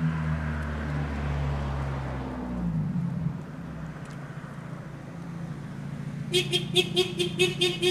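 A car engine running steadily close by, fading out about three seconds in. Near the end a rapid, evenly pulsing tone starts, several beats a second.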